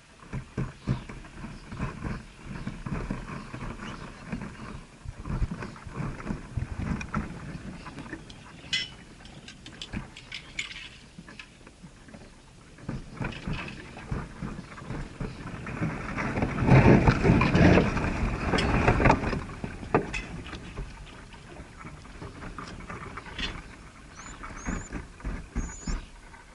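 Rustling and scratching noises, loudest about two-thirds of the way through, with a few short, high chirps near the end.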